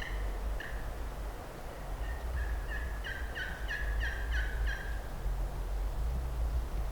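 Wild turkey yelps: a couple of single notes, then a run of about ten evenly spaced yelps at roughly three a second, over heavy wind rumble on the microphone.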